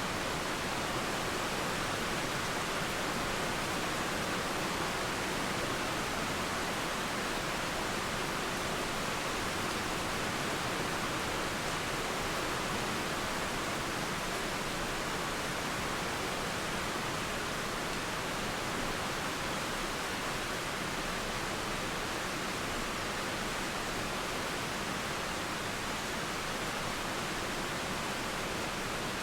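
Steady rain falling through trees, mixed with a flowing river: an even, unbroken hiss.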